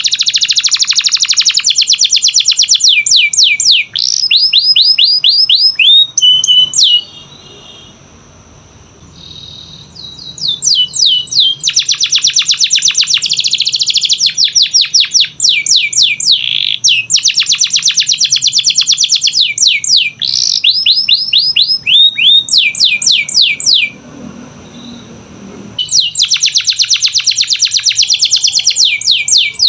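Domestic canary singing long trills of rapidly repeated falling notes, with a break of a few seconds about seven seconds in and another shorter one near the end.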